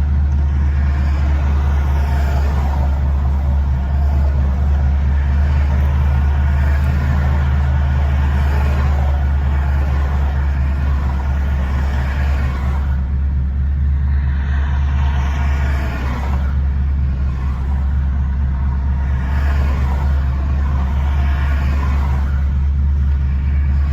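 Straight-piped exhaust of a tuned 2013 Chevrolet Camaro 2SS's 6.2-litre V8 droning loud and low while the car is driven, with small swells and dips in engine speed.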